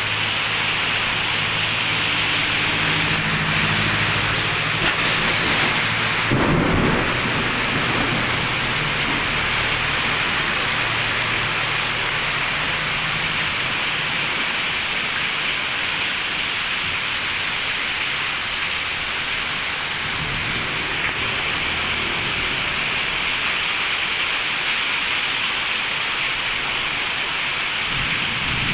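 Heavy tropical downpour hissing steadily, with low rumbles of thunder through the first half, a sudden louder boom about six seconds in, and another faint rumble around twenty seconds in.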